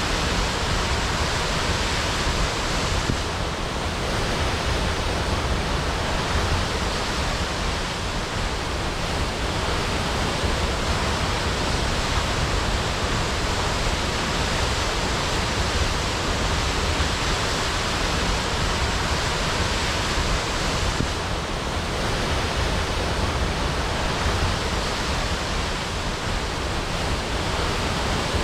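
Waterfall crashing: a steady, dense rush of falling water with no breaks.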